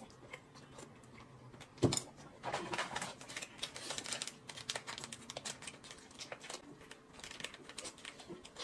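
A small plastic sachet of drink powder crinkling and crackling as it is torn open and handled, after a single sharp knock about two seconds in.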